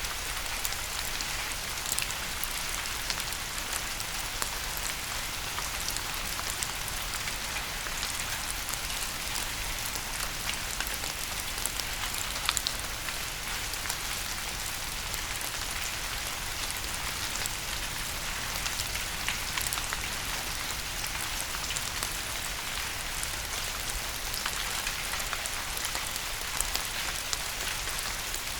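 Steady rain falling on a surface, an even hiss with scattered sharp drips and patters.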